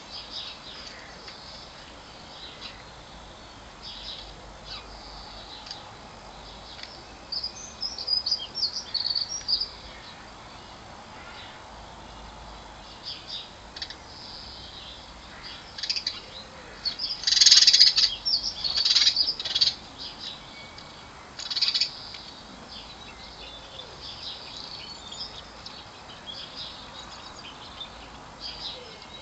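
Small garden songbirds chirping and twittering in short, high phrases, with louder bursts of calls about a third of the way in and again just past halfway.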